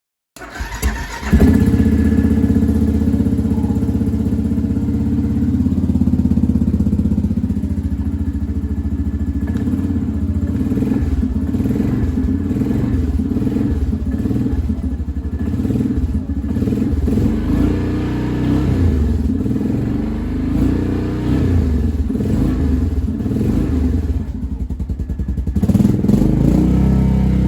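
A 2015 Yamaha Grizzly 550 ATV's fuel-injected single-cylinder engine on a cold start after sitting about a week. It fires up within the first second and a half and settles into a steady run, its pitch wavering now and then and swelling briefly near the end.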